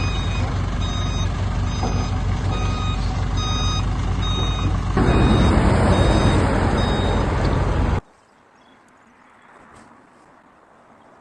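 Self-loading concrete mixer truck's engine running while its reversing alarm beeps a little faster than once a second. The engine gets louder about halfway through, then the sound cuts off suddenly, leaving only a faint background.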